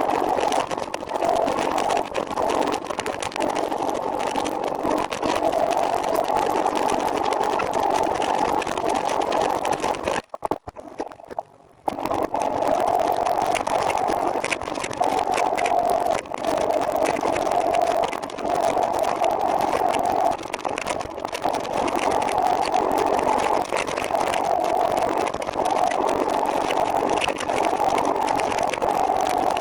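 Steady running noise of a trike under way, a continuous mechanical hum that drops out for about a second and a half roughly ten seconds in.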